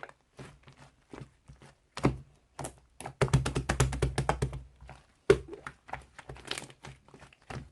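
Slime being handled, poked and squished, giving sharp clicking and popping sounds, with a dense run of rapid squishy clicks about three seconds in.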